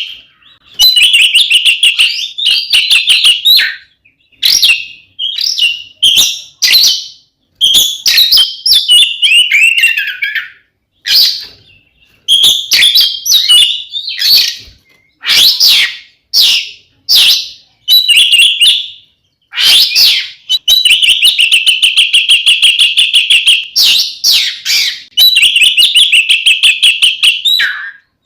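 Oriental magpie-robin (kacer) in loud, full territorial fighting song. It sings in bursts of rapid, varied whistled phrases, some with a harsh high rasping, broken by short pauses.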